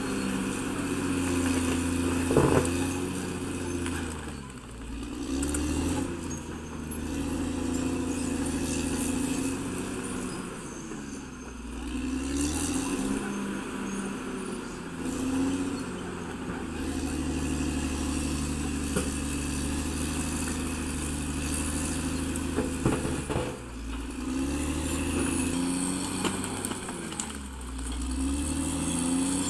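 Caterpillar D6R XL bulldozer's diesel engine working, its pitch sagging and climbing back several times as it takes load, with a few sharp knocks.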